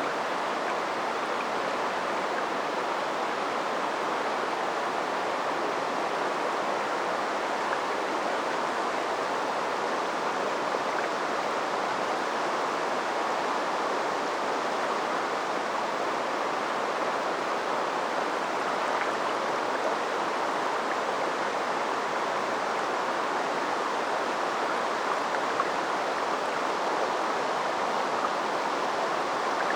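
Water of a river tributary flowing steadily, an even rushing murmur of running water.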